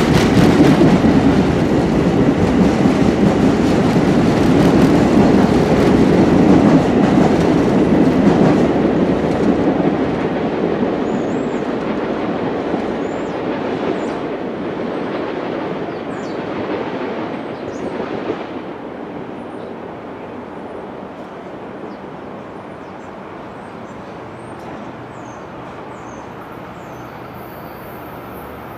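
Long Island Rail Road train passing close, its rumble and wheels clacking over rail joints, then receding and fading away over about ten seconds into a steady low background hum.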